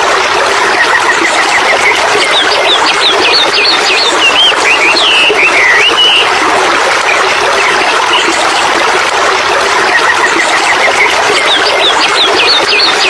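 Steady rush of flowing water with a songbird singing a fast run of high chirps, the same phrase coming twice about ten seconds apart.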